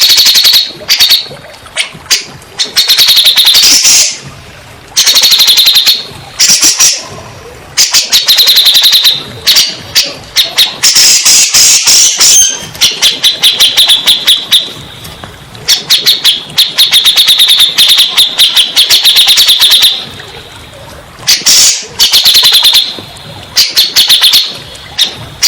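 Cak jenggot song: loud, rapid chattering phrases, each a second or two long, repeated with short pauses between them, as played in a song-therapy recording to stimulate a caged bird that has stopped singing.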